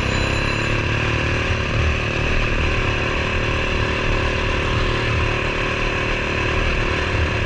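Coleman BT200X mini bike's small single-cylinder engine, stock apart from an aftermarket exhaust, running steadily under way with no clear revving up or down.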